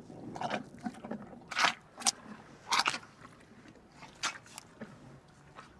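A rhinoceros chewing food, with irregular wet crunches. They are loudest and most frequent in the first three seconds and thin out toward the end.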